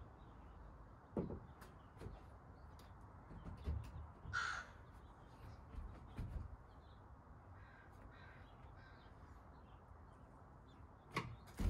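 A bird caws once, clearly, about four and a half seconds in, with a few fainter calls a few seconds later. A few short dull knocks fall between them.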